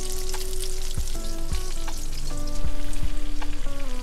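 Fish fillets in crumb and beer-batter coatings frying in hot, bubbling oil in a skillet, with a steady dense sizzle and crackle. Background music with a steady beat plays under it.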